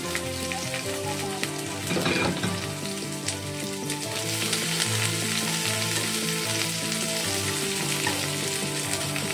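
Sliced onion and garlic sizzling in hot oil in a wok, stirred with chopsticks: a steady crackling hiss, with a louder surge about two seconds in.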